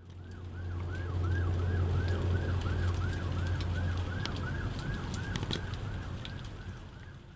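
Emergency vehicle siren on a fast yelp, its pitch rising and falling about three times a second, over a steady low engine drone.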